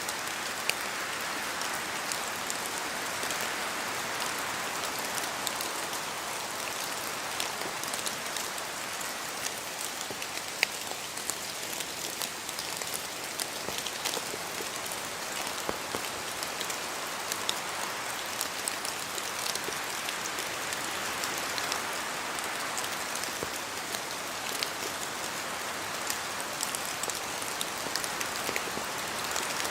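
Steady rain in a forest, a continuous hiss with many separate drops pattering down from the trees, one a little sharper about ten seconds in.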